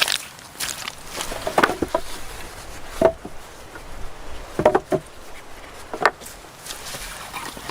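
Irregular wooden knocks and cracks, a few spaced a second or more apart, as pieces of wood are handled and worked.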